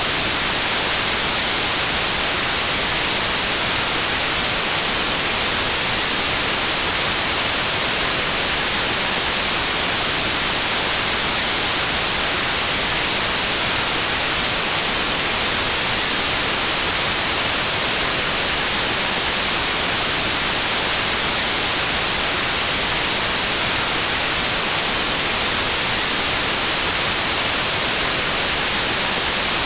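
Steady white noise: an even, unchanging hiss that is brightest in the treble.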